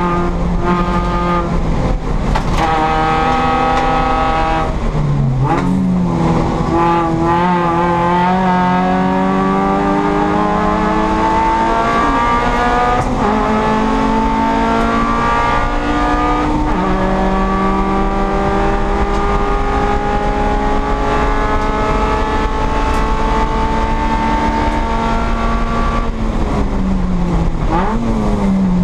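Engine of an H Production Toyota Yaris race car at racing speed, heard inside the stripped, caged cabin. Its pitch climbs slowly through each gear and drops sharply at several gear changes. The pitch falls near the end as the car slows, then rises again.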